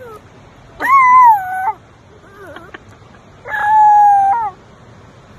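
A dog crying out twice: two long, high-pitched calls of about a second each, each held and then dropping in pitch at the end.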